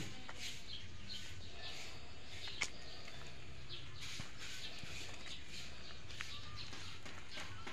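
Garden ambience with short bird chirps scattered throughout over steady low background noise, and one sharp click about two and a half seconds in.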